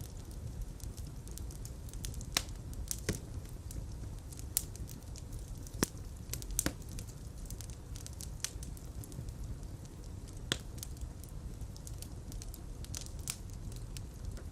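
Fireplace fire crackling: irregular sharp pops and snaps, a few louder than the rest, over a steady low rumble of flames.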